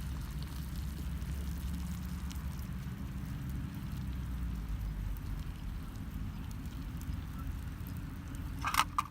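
Wood campfire burning, with sparse faint crackles over a steady low rumble. A short, sharp sound comes near the end.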